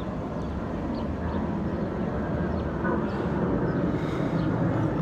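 Steady low rumble of a car being driven, road and engine noise heard from inside the cabin, growing slightly louder toward the end.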